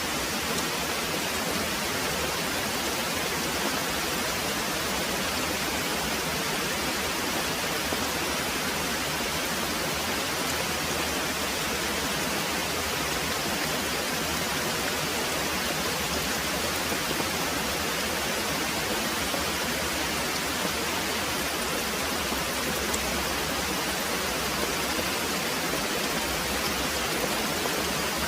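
Very heavy rain pouring steadily, an even, unbroken hiss.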